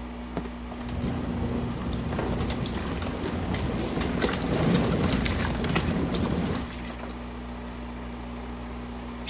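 Compact RV washing machine doing a cool-down fill: water splashes into the tub of hot wash water for about five and a half seconds, starting about a second in, then stops. The washer's motor hums steadily throughout.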